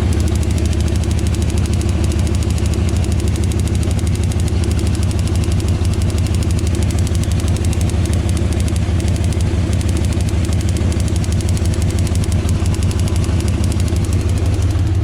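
The 5.0 V8 of a 1997 Ford Explorer idles roughly with a fast, steady ticking. It is misfiring on cylinders 7 and 8, which a damaged spark plug wire is taken to be causing.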